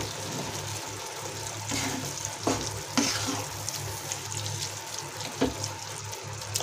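Mashed roasted eggplant and masala being stirred with a spatula in a non-stick pan, a steady wet sizzle, with a few scrapes and knocks of the spatula against the pan.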